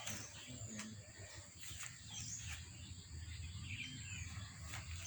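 Birds chirping outdoors, short high calls that slide in pitch every second or so, over a steady high insect drone.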